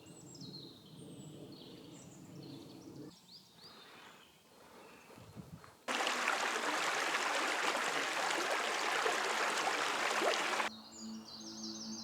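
Birds chirping in quick high calls, then, about six seconds in, a loud steady rushing noise that cuts in abruptly and cuts off just as suddenly about five seconds later, with bird chirps returning near the end.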